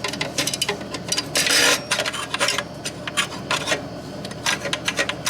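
Metal parts of an oil burner clicking, knocking and scraping as they are worked into place by hand in a cramped housing, with one longer scrape about a second and a half in.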